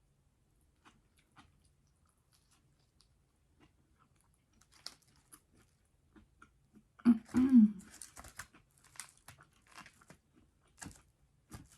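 A person chewing and crunching food, with sparse wet mouth clicks at first and a louder run of crunching about seven seconds in, along with a short hummed "mm".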